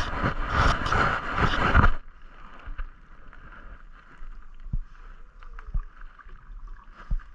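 Water splashing and sloshing around a kayak for about two seconds, then quieter lapping with a few light knocks against the hull.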